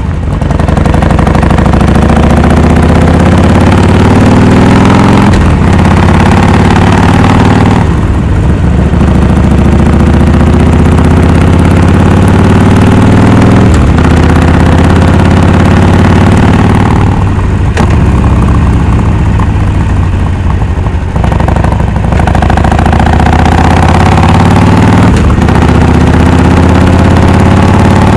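Harley-Davidson Forty-Eight's 1200 cc V-twin running through Rinehart Racing 3-inch slip-on exhausts with Super Quiet baffles, under way. The exhaust note climbs in pitch and then drops sharply at each gear change, several times over.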